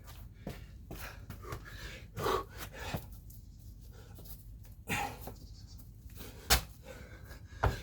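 A man panting heavily from exertion, drawing hard, ragged breaths while exhausted. Two sharp thumps come near the end, from his landings on the floor during the exercise.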